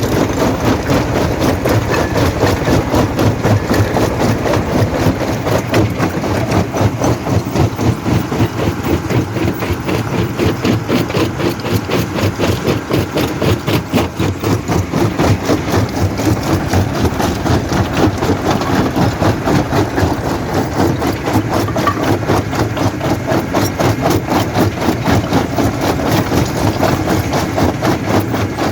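Jaw rock crusher running and crushing stone: a loud, steady machine drone that pulses in a fast, even rhythm, with rattling of rock.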